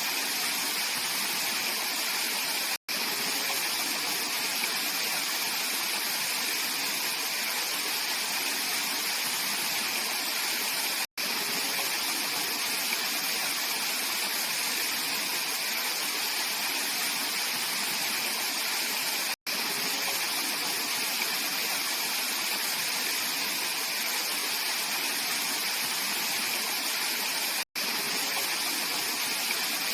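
Clear mountain stream rushing steadily over rocks in a valley, an even watery hiss. It cuts to silence for a split second roughly every eight seconds.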